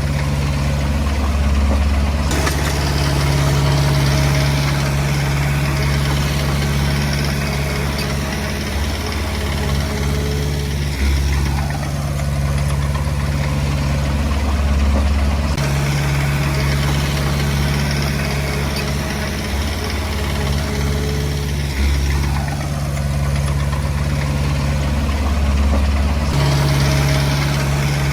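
Komatsu D20P bulldozer's diesel engine running steadily under varying load, its low drone swelling and easing every few seconds as the machine works.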